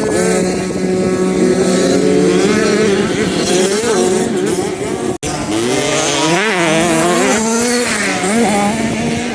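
Motocross bikes' engines running hard on a dirt track, their pitch rising and falling as they rev and shift. The sound cuts off abruptly about five seconds in and jumps straight back in, as at an edit.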